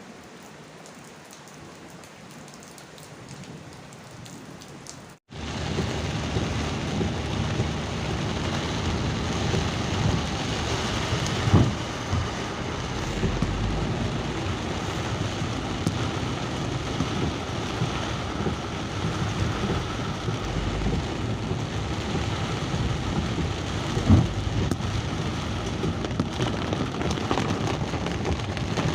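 Steady rain, lighter at first; after a sudden break about five seconds in it is louder and heavier for the rest. Two brief low thuds stand out, one near the middle and one near the end.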